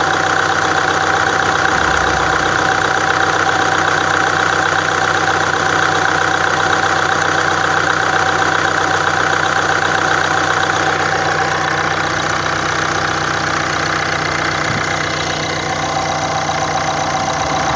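Nissan Qashqai's 1.6 dCi (Renault R9M) four-cylinder diesel idling steadily with an even diesel clatter.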